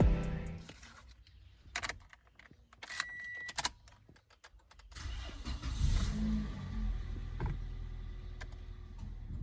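A few sharp clicks and a short high beep, then, about five seconds in, a car engine starting and running with a low steady rumble.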